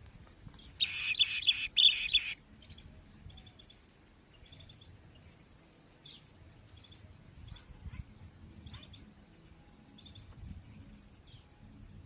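Bird calling: a loud, harsh, rasping call lasting about a second and a half, starting about a second in, then faint short high chirps every second or two.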